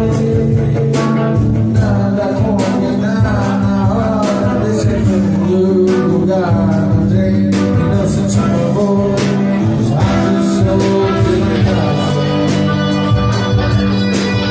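A live band playing a song: guitar and bass over a steady drum beat, with a voice singing.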